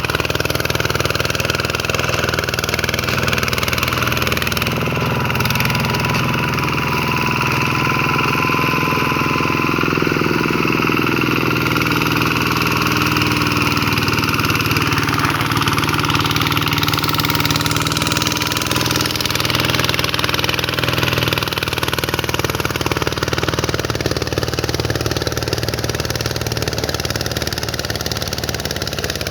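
Single-cylinder diesel engine of a Vikyno RV125 hand tractor running steadily.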